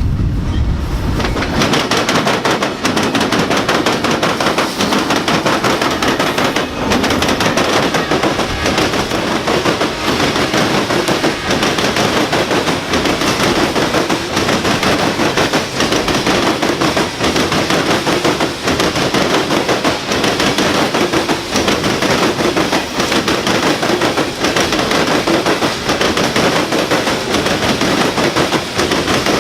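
Loaded coal hopper cars rolling past, their steel wheels clattering over the track in a rapid, steady run of clacks. A low rumble from the passing locomotives dies away in the first second or two.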